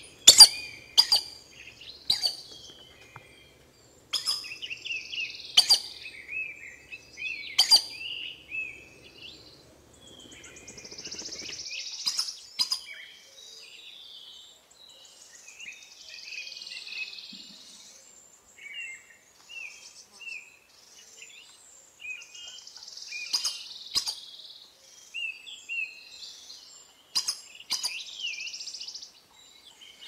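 Birds calling: sharp, high chirps, bunched in the first eight seconds and again after about twenty seconds, with softer hissing calls between.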